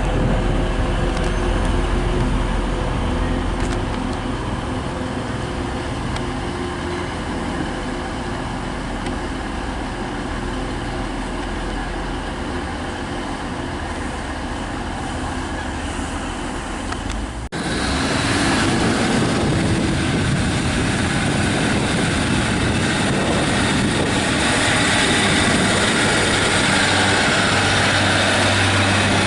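Train at a station: a steady engine drone with even tones for about 17 seconds, then an abrupt cut to a louder, noisier train passing, with a low hum building near the end.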